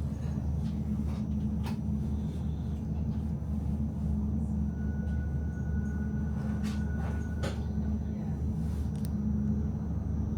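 Melbourne tram running along its track, heard from inside the car: a steady low rumble with a few sharp clicks and knocks, and a faint thin whine for a few seconds in the middle.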